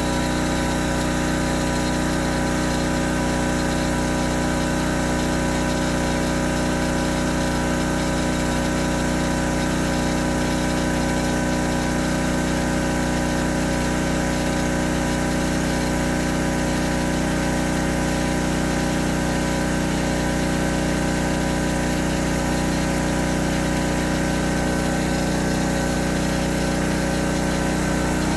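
Pressure washer running steadily with its pump primed and pumping water, a constant machine hum with no change in pitch or level.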